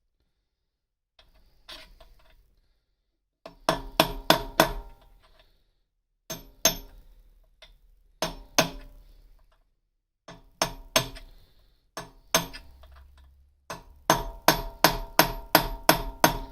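Hammer striking a steel punch in groups of sharp blows, each with a short metallic ring, to drive out the remnants of a snapped exhaust stud that are stuck fast. After a few light taps the blows come in pairs and small clusters, then quicken into a rapid run near the end.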